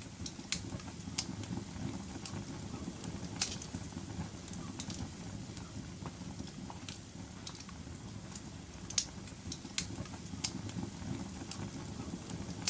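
Wood fire burning in a fireplace: a steady low rumble of flame with irregular sharp crackles and pops, two of them louder, around a third of the way in and again about two-thirds in.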